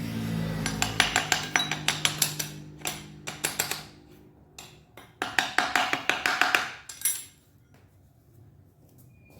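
Two runs of rapid metallic tapping, several strikes a second: the first starts about a second in and lasts about three seconds, the second runs from about five to seven seconds in. A steady low hum fades out in the first second or so.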